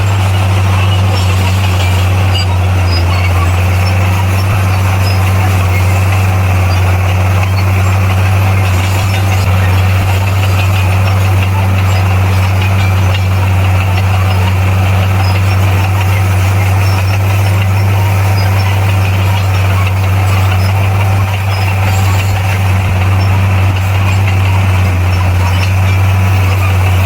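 Bulldozer's diesel engine running loudly and steadily, a constant low drone with no change in pitch.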